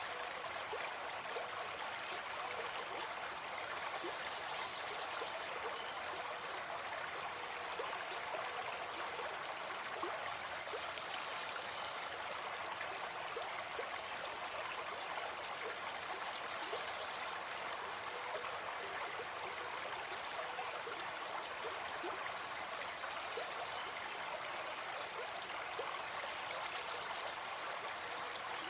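Gentle forest stream flowing: a steady, even rush of water.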